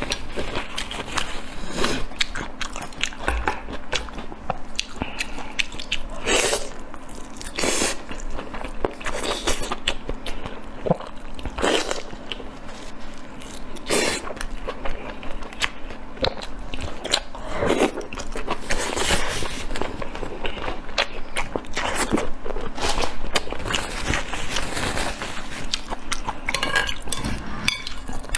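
Close-miked eating: a person biting and chewing food, with many short wet clicks and smacks of the mouth.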